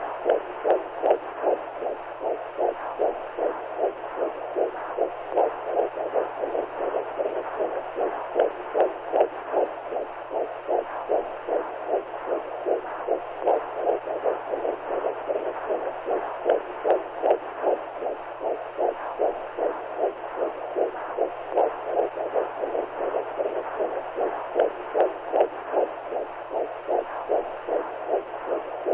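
Womb sound: the mother's heartbeat heard as a muffled, rhythmic whooshing pulse, repeating evenly over a steady low hum.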